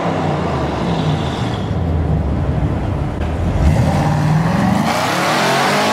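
Audi RS7's twin-turbo 4.0-litre V8 engine and exhaust running under load, its pitch dipping about midway through and then climbing steadily as it revs up.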